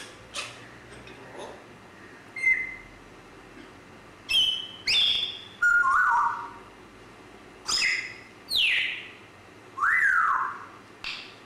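Grey parrot whistling and calling: a couple of sharp clicks at the start, then a series of short whistles and harsher calls a second or so apart, several gliding down in pitch and one rising then falling.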